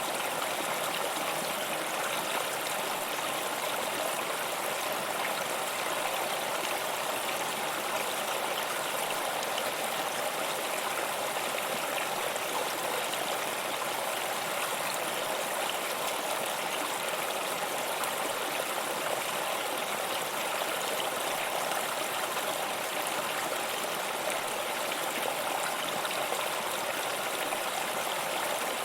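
Stream water running and babbling steadily.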